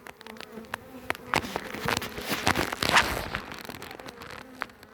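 Honeybees buzzing steadily around an opened hive, with a string of sharp clicks and knocks as the hive's parts are handled.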